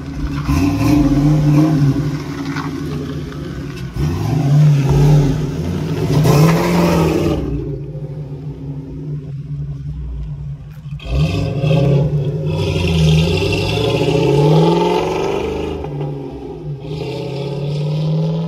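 Car engine accelerating hard through the gears: its pitch climbs several times and drops back at each shift, and it eases off briefly about halfway through before pulling again.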